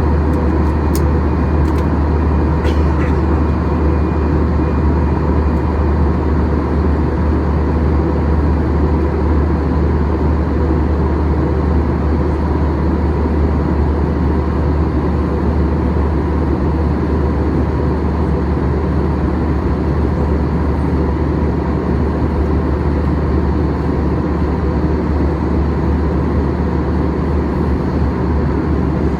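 Boeing 737-800 cabin noise in flight: a steady roar of engine and airflow, heaviest in a low rumble, with a faint even hum over it. A few light clicks come in the first three seconds.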